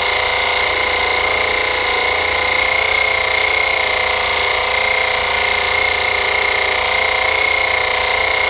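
Kensun portable 12V air compressor tire inflator running steadily while pumping up a tire, a loud mechanical buzz with a steady whine.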